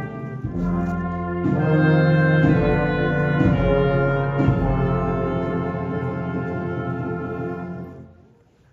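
Brass ensemble playing slow, held chords that change about once a second, then fading away near the end.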